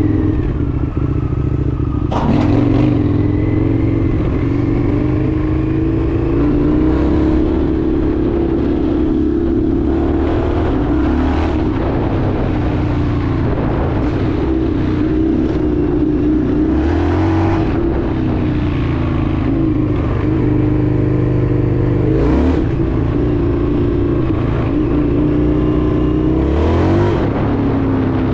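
Indian FTR 1200's V-twin engine running under way, its note dipping and rising several times as the revs change. Short rushes of noise come in about five times.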